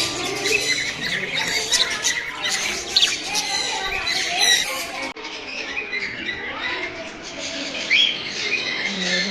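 Many birds chirping and squawking at once, with short sharp calls and quick rising and falling chirps overlapping throughout; the sound changes abruptly about five seconds in.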